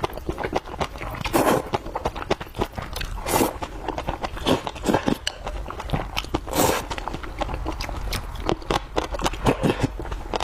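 Close-miked eating of glass noodles with pickled cabbage: wet chewing and smacking with many small mouth clicks, and four short louder slurps or sucks.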